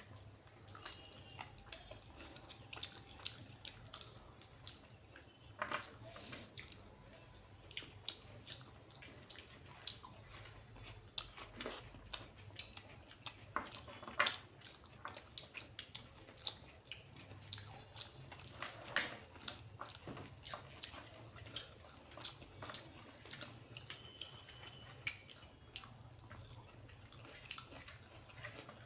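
Close-miked eating sounds: chewing, with irregular wet clicks and smacks of the mouth, as someone eats mutton curry with rice.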